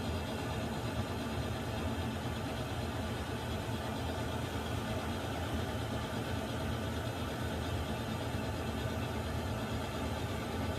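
Water heater running: a steady, even low rumble with a hiss above it, unchanging throughout.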